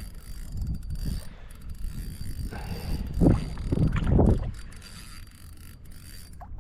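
Fishing reel being worked against a hooked fish, with a ratcheting, clicking run of mechanical noise that comes in uneven spells and is loudest a little past the middle.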